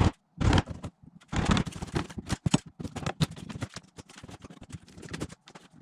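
Irregular clatter of knocks, taps and scrapes from wood and tools being handled, with a few louder knocks in the first couple of seconds.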